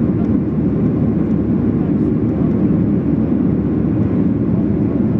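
Steady cabin noise inside a Boeing 737-800 in flight: the CFM56 engines and the airflow over the fuselage give an even, low rumble.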